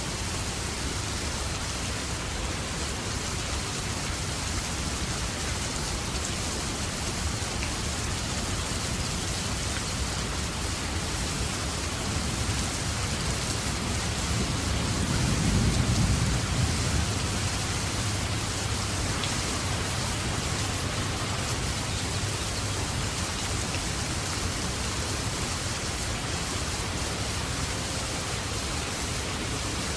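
Steady rain falling, an even hiss. About halfway through, a low rumble of thunder swells and fades.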